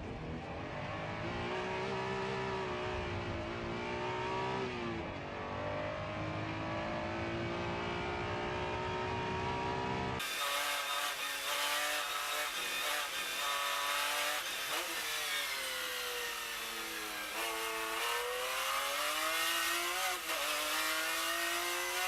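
Two different supercar engines, one after the other, with a hard cut about ten seconds in. The first accelerates with its pitch climbing and one gear change partway through. The second revs hard, its pitch falling and climbing again and again through gear changes.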